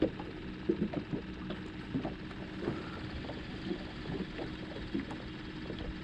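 Ambient sound aboard a small fishing boat on the water: a steady low hum and a noise bed, with irregular soft knocks scattered throughout.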